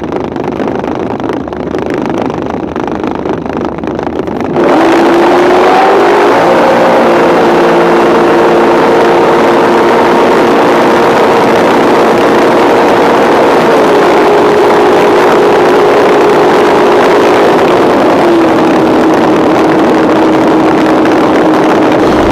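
Drag boat engines running hard and very loud. About four and a half seconds in the sound jumps up, then holds steady, with its engine note stepping in pitch a few times.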